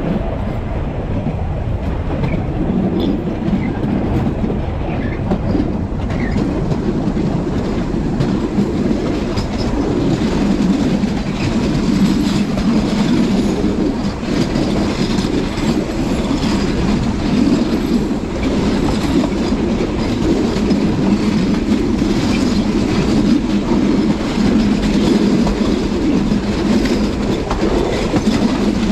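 Passenger train running along the track, heard from the driver's cab: a steady rumble of wheels on rail with faint clicks now and then.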